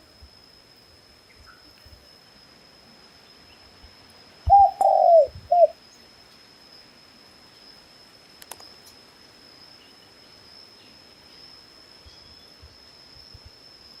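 A dove cooing once about four and a half seconds in: a short note, a longer wavering note, then a short note, all low-pitched. A faint steady high tone runs underneath.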